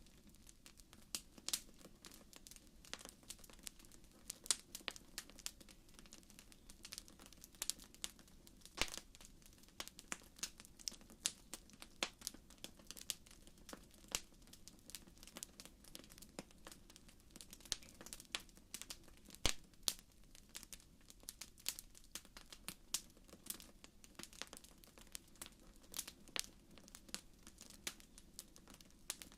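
Wood fire crackling in a fireplace: frequent, irregular sharp pops and snaps, a few louder than the rest, over a faint steady low rumble.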